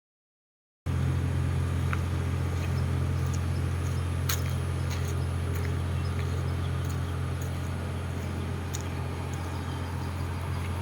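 A steady low hum starting about a second in, with scattered faint light clicks and taps over it.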